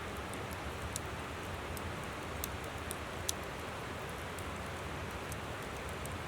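Wood campfire crackling, with scattered sharp pops (the loudest about three seconds in), over the steady rush of a flowing river.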